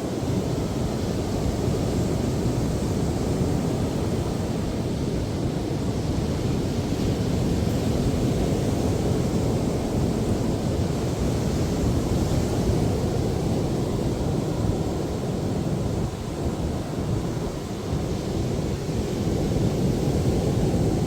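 Heavy surf breaking on a beach in a strong onshore wind: a steady, deep rumble of waves and wind.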